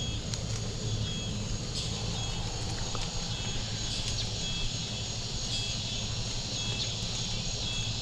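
Very light rain falling, with insects chirping in short repeated calls over a steady low hum.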